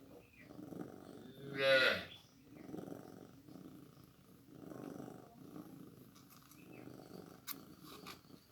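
Cat purring in slow rhythmic swells, one per breath, with a single short loud meow about two seconds in and two faint clicks near the end.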